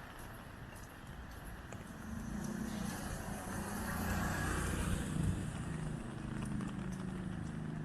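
A car passing on a wet street: its engine and tyre hiss build from about two seconds in, peak around four to five seconds, then ease off a little.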